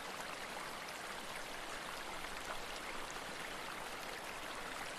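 Steady rainfall, a soft even hiss of falling drops with faint scattered patters.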